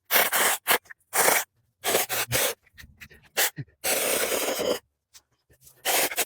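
Battery-powered 21-volt mini chainsaw cutting through tree limbs: a run of short, harsh scraping bursts of the chain biting into wood, the longest near the middle, each broken off abruptly by silence.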